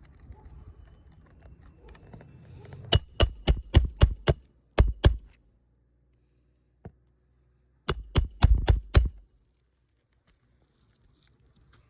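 Roofing hammer striking a roof snake to drive roofing nails under a three-tab shingle: a quick run of about eight sharp metallic blows, a short pause, then about five more.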